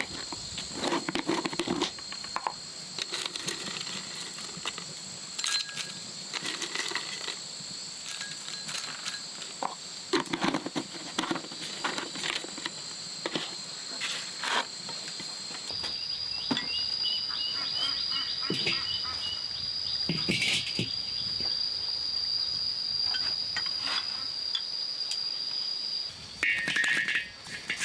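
Steady high-pitched insect trilling, with scattered short knocks and clinks from things being handled. The trill changes pitch a little past halfway through.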